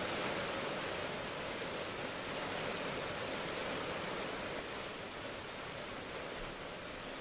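Steady rain ambience, an even hiss of falling rain that eases slightly about two-thirds of the way through.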